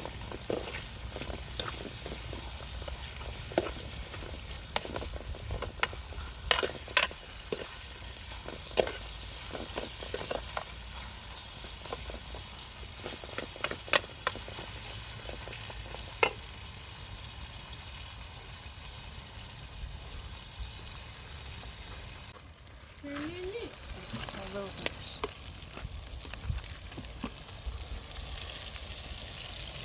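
Food frying in a pan with a steady sizzle, stirred with a spoon that clinks and scrapes against the pan now and then, mostly in the first half. About two-thirds of the way through, the sizzle briefly drops and there is a short sliding squeak.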